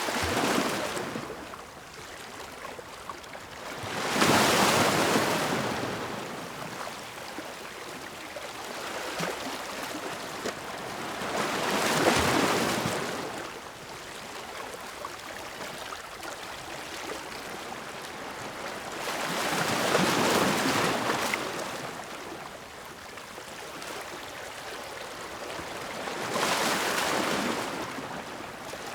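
Ocean waves breaking and washing ashore, a swell of surf every seven to eight seconds with quieter hiss between, four surges in all.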